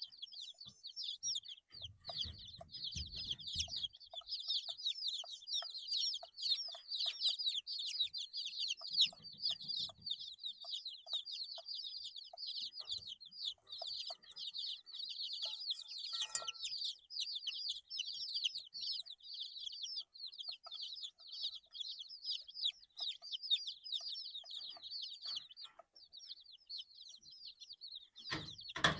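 Brood of 8-day-old chicks peeping continuously, many short high chirps overlapping. There is a sharp click about halfway through and a thump near the end.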